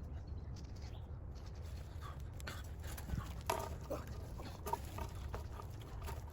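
Short animal sounds close by: a few brief calls and clicks, bunched together about halfway through, over a low steady rumble.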